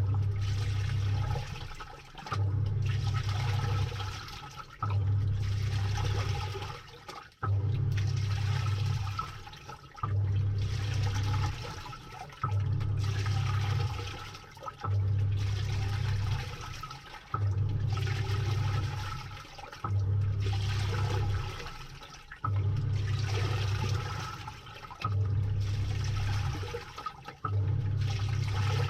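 Samsung top-load washing machine agitating a load, heard from inside the tub. The motor hums as it drives the pulsator in strokes about every two and a half seconds, with water churning and splashing on each stroke and short lulls between.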